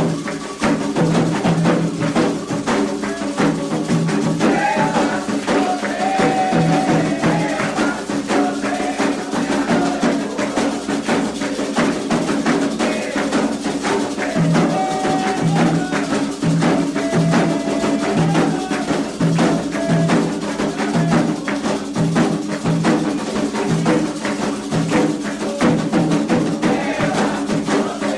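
Candomblé ritual music: atabaque hand drums and other percussion playing a continuous dense rhythm, with voices chanting over it.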